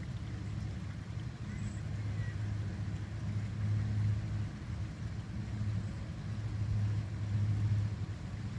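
A low, steady engine-like hum that swells and fades, with faint bird chirps about two seconds in.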